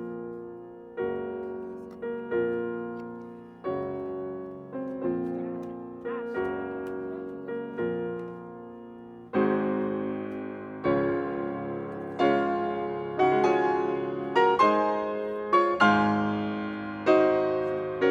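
Slow, gentle piano music, chords struck about once a second and left to ring, growing fuller and louder about halfway through.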